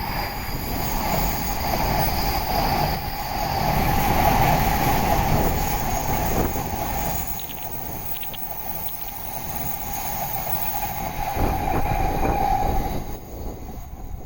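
Shinkansen train passing at speed: a rush of rail and wind noise that builds to its loudest about four seconds in and then eases off, with a steady hum in the middle register running alongside until near the end.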